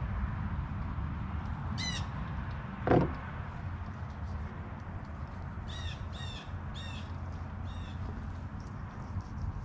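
Short bird calls: one about two seconds in, then four in quick succession around six to eight seconds in. They sound over a steady low outdoor rumble, with one brief louder knock about three seconds in.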